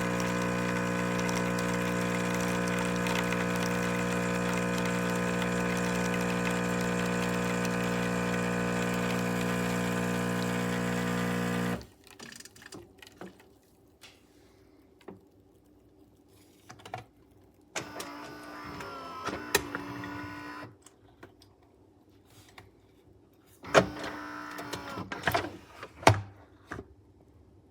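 Philips 3200 Series espresso machine's pump humming steadily while it dispenses, cutting off abruptly about twelve seconds in. Then two short motor whirs with sharp clicks from the machine's mechanism, a few seconds apart.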